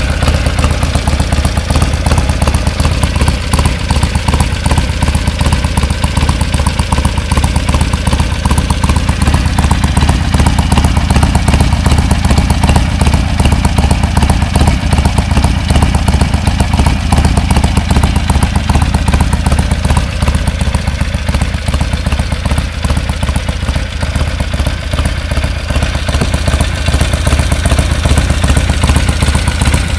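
Harley-Davidson XL1200X Forty-Eight's 1200 cc V-twin running steadily through a Rinehart Racing 3-inch slip-on exhaust fitted with the Super Quiet Baffle, a deep, even exhaust note.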